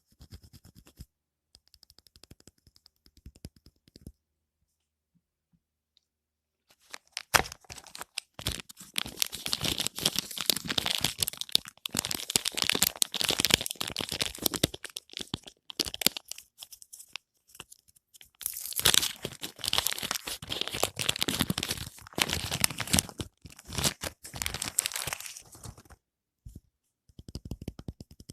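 Soap wrapper being torn and crinkled open by hand: faint rustling at first, then after a few seconds' pause, long stretches of loud crackling and tearing with short breaks.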